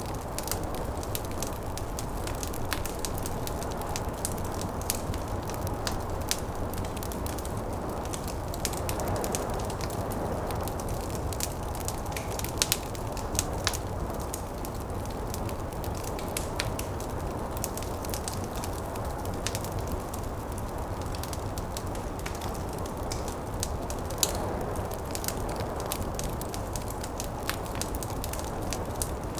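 Wood fire crackling with frequent small snaps and a few louder pops, over a steady low rushing noise of snowstorm wind.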